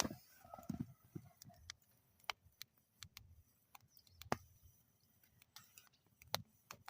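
Wood campfire burning in a metal fire bowl, crackling with sparse, irregular sharp pops; a louder pop comes about four seconds in and another near the end.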